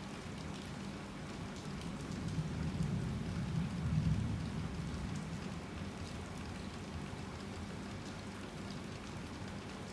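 Heavy rain falling steadily, with a low rumble of distant thunder swelling about three to four seconds in and then fading back under the rain.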